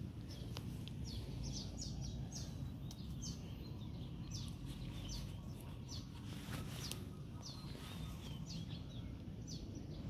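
A small bird chirping over and over in short, high, falling notes, over a steady low rumble.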